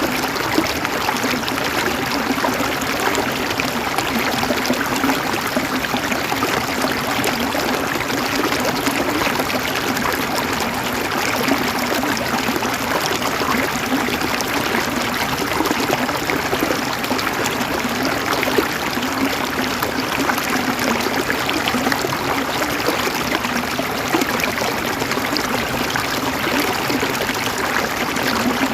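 River water flowing and gurgling over stones, a steady splashing with fine crackling trickles.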